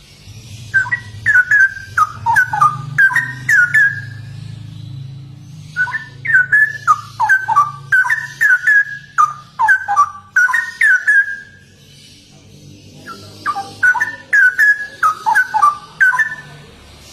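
Straw-headed bulbul (cucak rowo) singing vigorously in three bursts of rapid, rich whistled notes, each note sliding down in pitch, with short pauses between the bursts, over a low steady hum.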